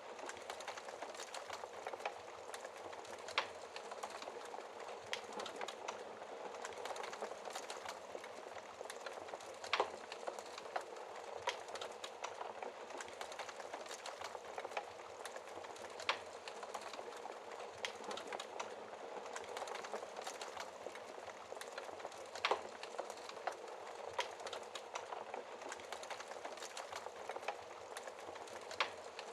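Wood fire burning behind a glass fireplace door: a steady hiss with frequent small crackles and pops, and a few louder pops several seconds apart.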